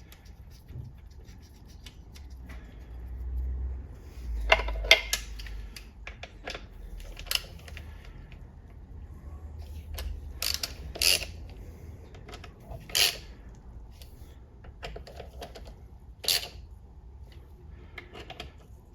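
Bolts and hand tools clinking against metal while the mechatronic valve body is fitted to a ZF 8HP70 transmission case: irregular sharp clicks and clinks, a few louder knocks among them.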